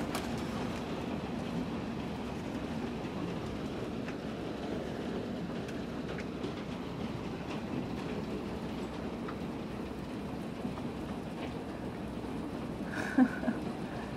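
Steady low rumble of a rainstorm, with scattered faint ticks and a brief higher-pitched squeak about thirteen seconds in.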